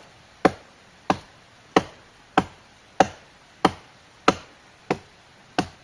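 Footsteps crunching on dry forest leaves at a steady walking pace: nine even steps, about three every two seconds.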